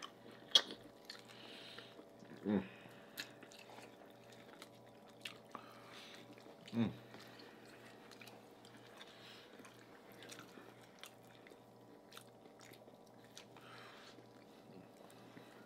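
Close mouth sounds of eating with the hands: chewing, lip smacks and small wet clicks as oxtail meat and corn on the cob are bitten and chewed. A couple of brief low hums stand out.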